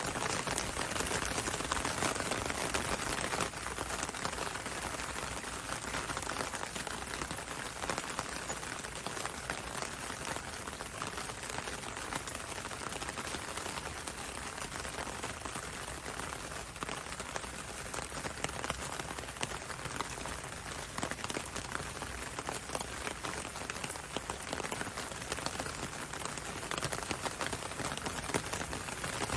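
Steady gentle rain falling on a window and a road: a constant rain hiss dotted with many small drop taps.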